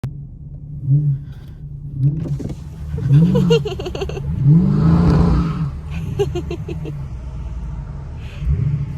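Car engine revved in repeated throttle blips, each a quick rise and fall in pitch, the longest about five seconds in, with a rapid crackle after some of them.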